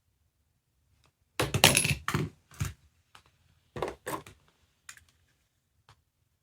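Small hard objects clattering and clicking against each other in two short bursts, then a single click, like handling small plastic toys or capsules.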